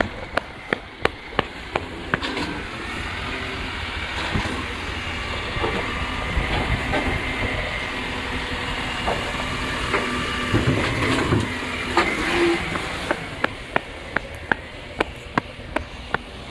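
Rubbish truck at work: a hissing, whining mechanical stretch with a knock about twelve seconds in, between runs of quick regular clicks, about three a second, at the start and near the end.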